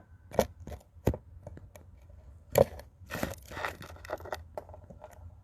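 Wet clothes being scrubbed and handled by hand: a few sharp slaps and rustles, then about a second of rubbing fabric.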